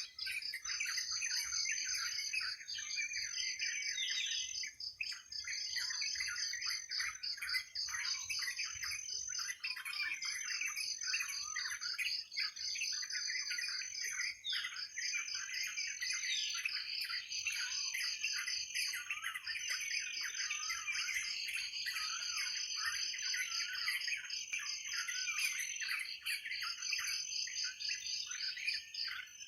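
Many birds chirping and calling together over a steady, high, rapidly pulsing insect trill.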